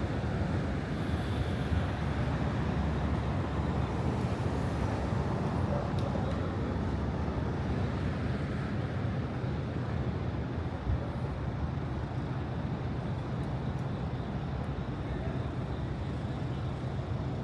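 Steady city street traffic: cars and other vehicles running past with an even low rumble.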